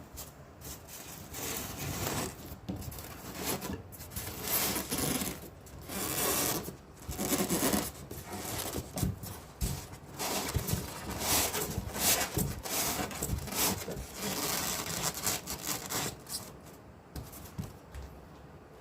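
Irregular scraping and rubbing in short bursts of a second or two, like hand work on a material such as cutting or filing.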